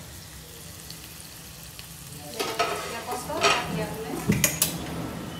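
Spatula stirring and scraping a thick frying masala of tomato, onion and paneer in a non-stick wok, the mixture sizzling. The stirring starts a little over two seconds in, after a low steady hum, and there are a few sharper scrapes near the end.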